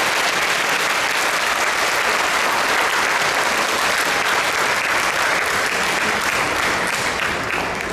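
Audience applauding in a hall: dense, steady clapping that begins to die down near the end.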